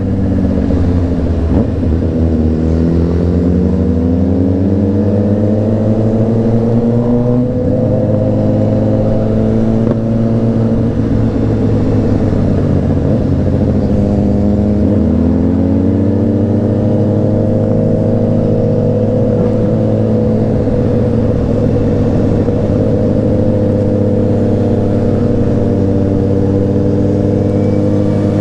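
Honda CBR600RR's inline-four engine running under way. Its pitch dips and climbs twice as the rider eases off and accelerates, then holds steady at cruising speed for the second half.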